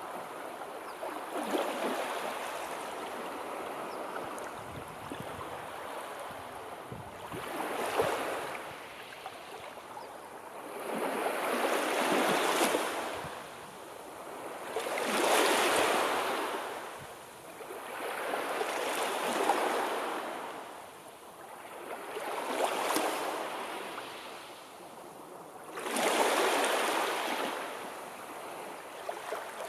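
Sea waves breaking and washing in, each one swelling and fading, about every three to four seconds.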